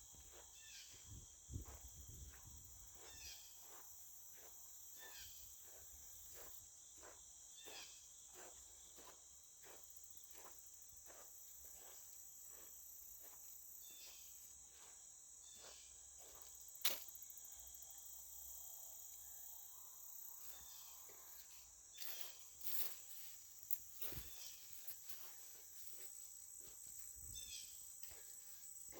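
Steady high chorus of crickets and other insects, with faint, evenly spaced ticks through the first half and one sharp click about two-thirds of the way through.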